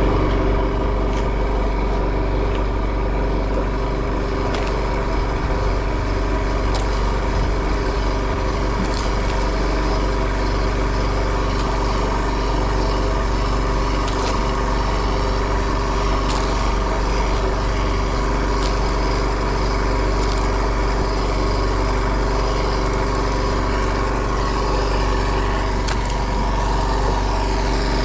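Fishing boat's engine running at a steady speed, a constant hum.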